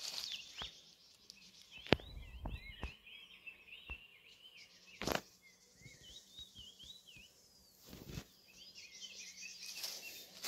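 Faint small-bird chirping: a quick run of short, rising-and-falling notes. A sharp knock comes about two seconds in, and a few brief rustles and bumps follow.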